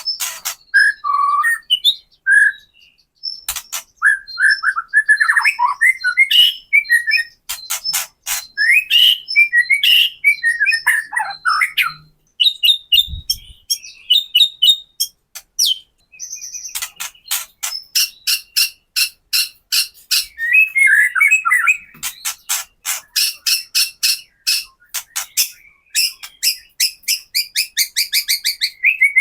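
White-rumped shama (murai batu) singing: whistled phrases alternate with long runs of dry, rapid clicking rattles, the 'kretekan' call, at several clicks a second, with a short break about halfway through.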